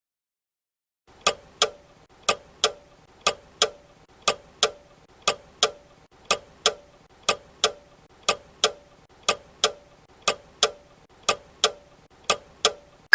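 Clock tick-tock sound effect, a pair of ticks every second for twelve seconds, counting down a quiz's answer time. A ringing chime starts right at the end as time runs out.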